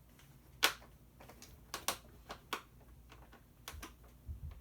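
Scattered sharp clicks and taps of a screwdriver working at a hard-to-reach screw in a plastic ride-on toy, the loudest about a second in.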